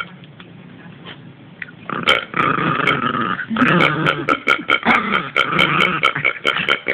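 Miniature pinscher making a long run of odd throaty, burp-like noises. It starts about two seconds in, with a brief break partway through.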